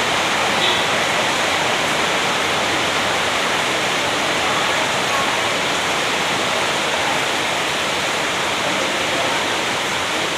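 A steady, even rushing hiss with no change in level.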